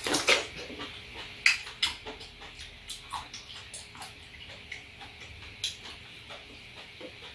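People chewing ripe apricots: irregular wet mouth clicks and smacks, loudest about a third of a second and a second and a half in, over a steady faint high hiss.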